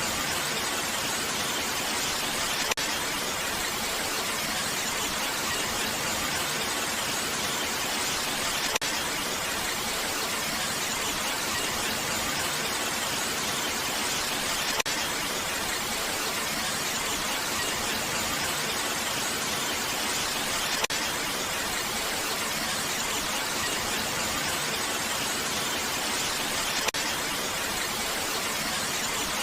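Steady, even rain hiss with no change in intensity. A faint click sounds about every six seconds.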